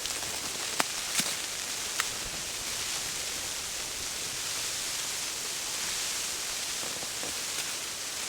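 Steady hiss of wind and blowing snow, with three sharp ticks in the first two seconds.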